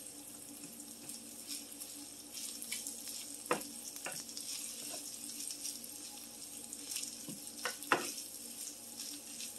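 Rice and mixed vegetables sizzling steadily in a frying pan while a wooden spatula stirs them, with a few short knocks and scrapes of the spatula against the pan.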